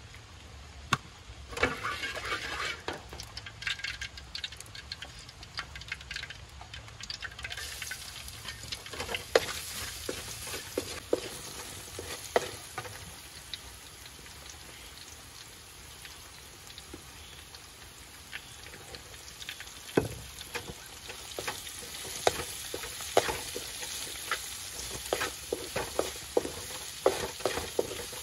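Chopped garlic, chilies and onion sizzling in hot oil in a steel wok, with a spatula scraping and knocking against the pan. The sizzle grows louder about a quarter of the way in, and the spatula strikes come irregularly.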